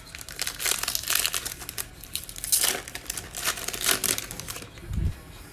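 Plastic trading card pack wrapper being torn open and crinkled, as a pack of Panini Mosaic football cards is opened. There is a soft low thump near the end.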